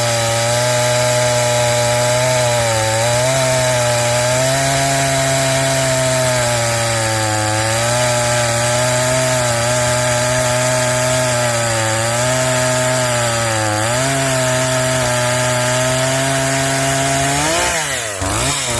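Two-stroke gas chainsaw running at high revs and cutting, its engine note dipping briefly every few seconds as it bogs under load. Near the end the revs sweep up, then fall away.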